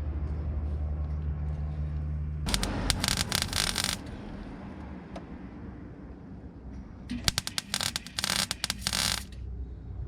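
Two bursts of MIG welding crackle and spit as a patch panel is tack-welded into a car's rear wheel arch: one about two and a half seconds in, lasting roughly a second and a half, and one of about two seconds near the end. A steady low hum stops just as the first burst starts.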